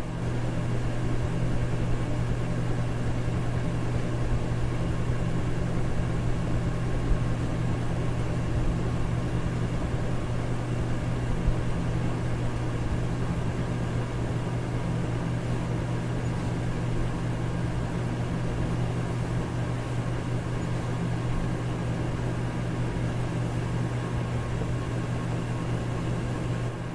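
Electric fan running steadily: an even rush of air over a strong low motor hum, with a few faint steady tones higher up.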